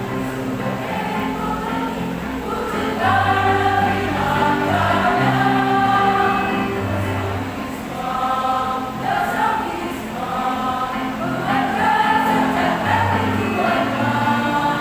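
A choir singing held notes in several parts, growing a little louder about three seconds in.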